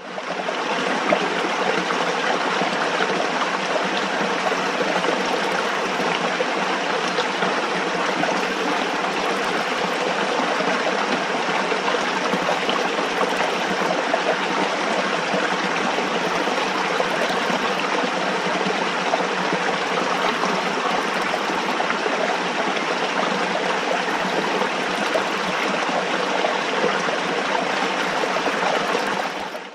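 Running water with an even, steady rush, cutting out briefly at the very end.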